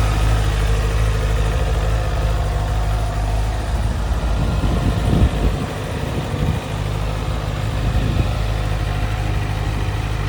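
Honda CBR900RR Fireblade's inline-four engine idling steadily, with a brief louder, rougher patch about halfway through.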